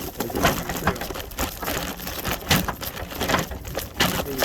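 Bicycle rattling and clattering as it rides over a bumpy trail, a run of irregular clicks and knocks.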